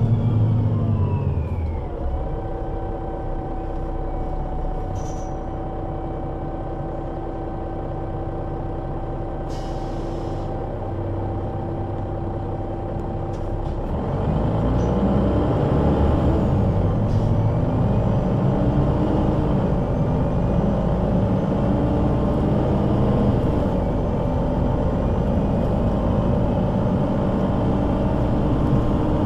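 Solaris Urbino 12 III city bus with a Voith automatic gearbox. It slows with a falling whine, then idles steadily, with a short hiss of air near the middle. About halfway through it pulls away louder, engine and gearbox note rising slowly.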